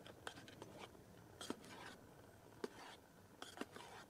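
A few faint, sharp clicks and light scrapes at irregular moments, as of small objects being handled, over a quiet hiss.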